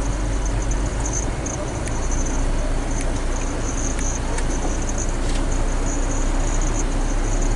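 Cab noise of a Hino 500 FM320TI diesel truck under way: a steady low engine and road rumble, with a high-pitched chirping that comes and goes over it.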